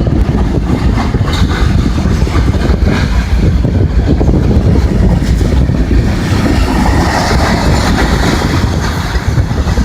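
Loaded coal hopper cars of a Union Pacific coal train rolling past at speed: a loud, steady rumble of steel wheels on rail, with wind buffeting the microphone.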